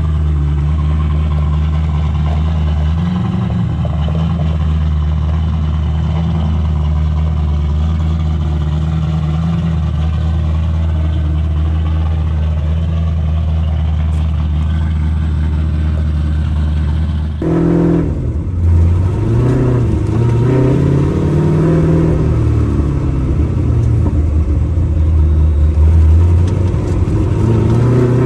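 Turbocharged 363 stroker Ford small-block V8 in a Fox-body Mustang, idling steadily on its first runs after a bigger turbo was fitted. About two-thirds of the way in it switches to the car being driven, the engine pitch rising and falling repeatedly as it accelerates and lets off.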